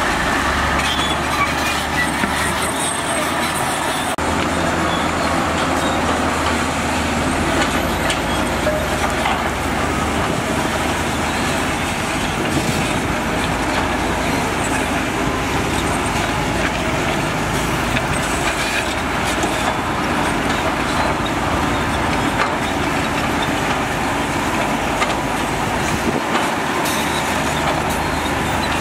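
Diesel engines of heavy earthmoving machinery running steadily, a continuous low hum under a dense mechanical noise.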